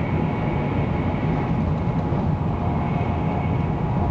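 Running noise of a 300 Series Shinkansen heard inside the passenger cabin: a steady low rumble with faint steady high tones above it.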